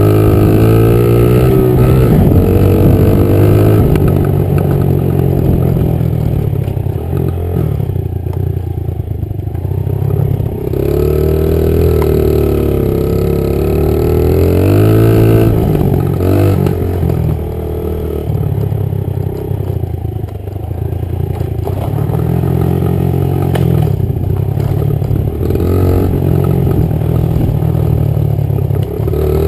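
Honda 50 dirt bike's small single-cylinder four-stroke engine revving up and down as the throttle is opened and closed, with the pitch climbing and falling again and again and easing off briefly a couple of times partway through.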